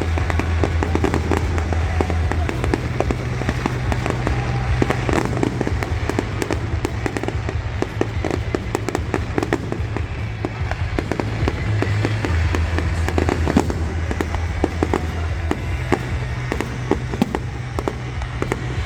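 Fireworks going off in quick succession, a dense run of bangs and crackles, over music with a deep bass line.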